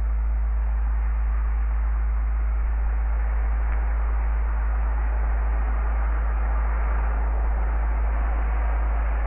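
Steady low hum with an even hiss over it, unchanging throughout, with no distinct calls or knocks.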